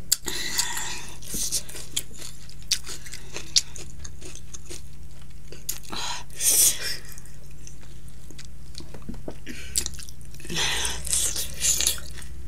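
Close-miked eating sounds: a lemon slice being bitten, chewed and sucked. Mouth clicks and smacks come in a few short bursts.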